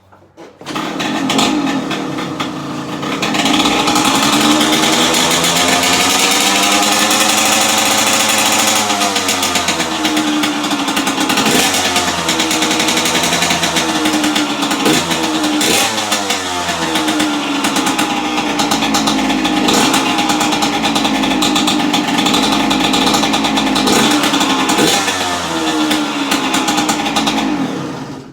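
2004 Yamaha YZ125 two-stroke dirt-bike engine with a Pro Circuit exhaust pipe firing up within the first second and running. It is revved up and let back down once, then given several quick throttle blips, and it cuts off abruptly at the end.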